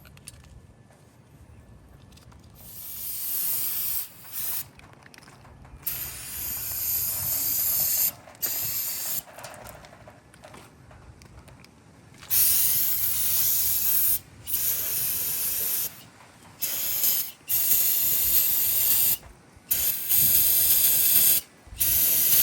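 Aerosol can of cleaner sprayed onto a 383 engine block in about ten hissing bursts, each starting and stopping sharply, some under a second and others about two seconds long.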